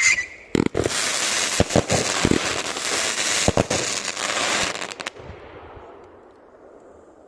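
Fireworks going off: a few sharp bangs, then a dense crackling barrage with more bangs mixed in, which stops suddenly about five seconds in and is followed by a fading echo.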